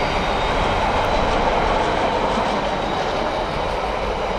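A train passing on the main line: a steady, loud rush of wheels running on the rails.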